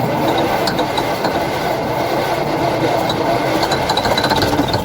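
Long-dormant International truck engine turning over and firing on sprayed ether and WD-40, running rough with a fast rattle. It is not picking up its own fuel.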